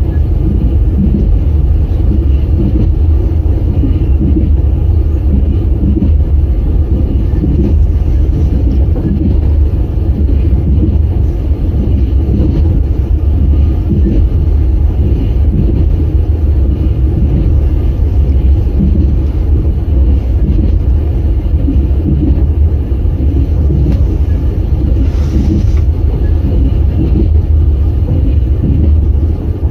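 Passenger train running at speed on rails, heard from inside the carriage: a steady low rumble of wheels and running gear.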